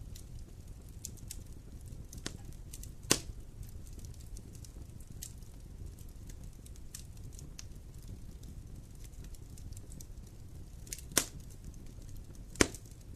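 Wood campfire burning: a low steady rumble of the flames with scattered crackles and sharp pops of the burning wood, the loudest pops about 3 seconds in and twice near the end.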